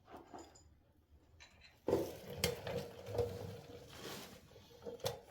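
Metal parts and hand tools being handled: irregular clinking and rattling from about two seconds in, with a couple of sharp clicks, one near the end.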